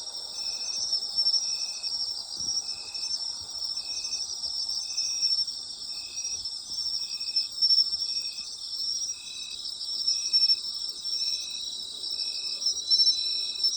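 Autumn night insects calling: a dense, steady high trilling from many insects, over which one insect chirps in short, evenly spaced pulses, about three every two seconds.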